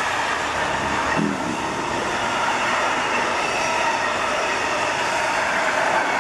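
Model railway container train running along the layout's track, giving a steady rolling rattle.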